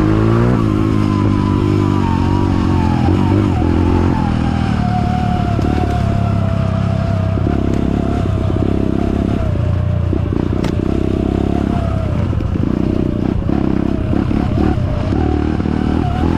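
Kawasaki KLX trail motorcycle engine running at low revs, the throttle opening and closing in short pulses in the second half. A thin whine rides above the engine note and slowly falls in pitch.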